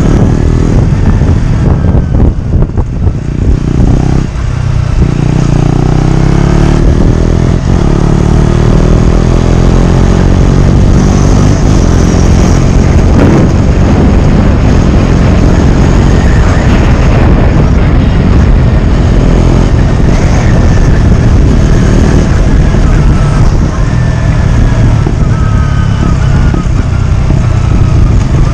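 KTM Duke 125's single-cylinder engine running loud through a GPR aftermarket exhaust with its dB killer removed, the revs rising and falling several times.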